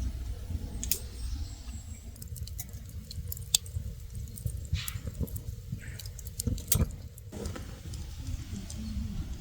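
Scattered light clicks and knocks of small objects being handled, the sharpest about three and a half and seven seconds in, over a steady low rumble.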